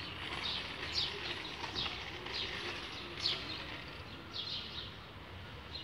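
A songbird calling over and over, short high falling chirps repeated every half second to a second, over a faint steady background hum.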